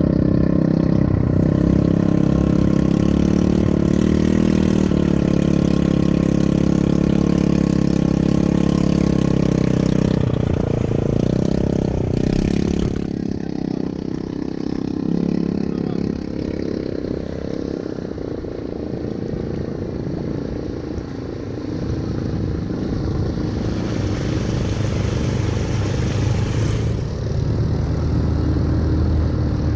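ATV engine running as the quad is ridden: a steady engine note for about the first ten seconds, then quieter and more uneven, picking up again near the end.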